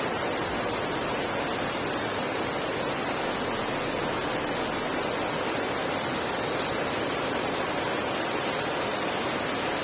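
Water pouring through the open shutters of a dam spillway during monsoon release: a steady, even rush of water that does not change.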